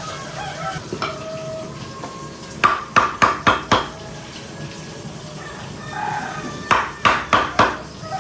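Kitchen clatter: two quick runs of about five sharp knocks each, a few seconds apart, like utensils or a knife striking hard. Short high-pitched calls sound in between.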